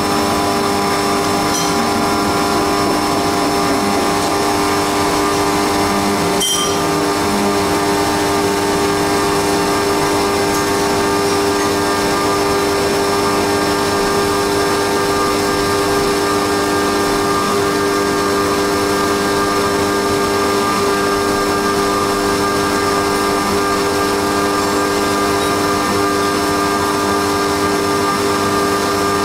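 Haas CNC milling machine running steadily while milling a cam on its 4th-axis dividing head, a constant machine whine made of several steady tones. One short sharp click comes about six and a half seconds in.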